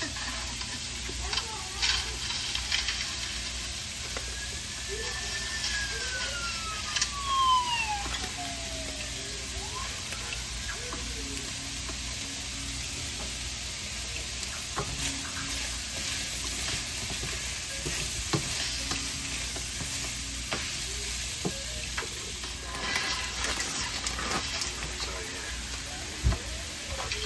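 Chicken pot pie filling sizzling in a pot on the stove as it is stirred, with occasional clicks of a utensil against the pot. A single sliding tone falls in pitch around five to nine seconds in.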